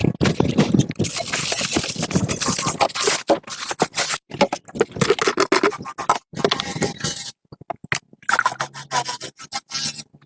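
Rapid, irregular scraping strokes, briefly pausing twice.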